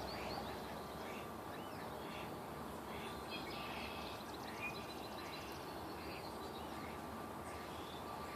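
Several small birds chirping and twittering in short, scattered calls around a nest being built, over a steady outdoor background hiss.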